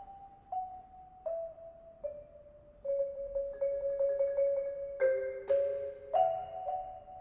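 A mallet keyboard instrument playing a melody of struck notes that ring on. Slow single notes come about one every three-quarters of a second. From about three seconds in, faster repeated notes take over and the playing grows louder, with two-note chords near the end.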